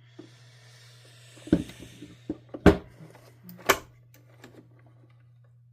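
Hard parts being handled during disassembly: a few sharp knocks and clicks, three of them louder, about one and a half, two and three-quarter and nearly four seconds in, over a steady low hum.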